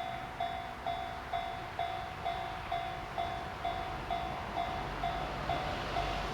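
Japanese railway level-crossing warning bell dinging evenly about twice a second, with the noise of an approaching train building up near the end.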